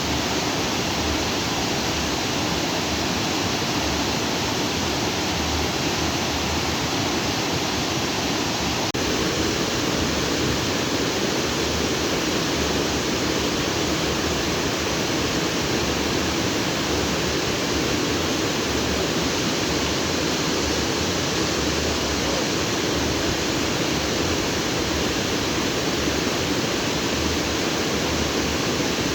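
Water flowing fast over rocks in a stream, a steady full rushing.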